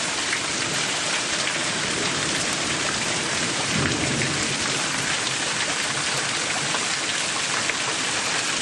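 Heavy rain pouring down and splashing on surfaces as a steady hiss with many fine ticks of drops, near the end of a severe thunderstorm. A brief low rumble comes about four seconds in.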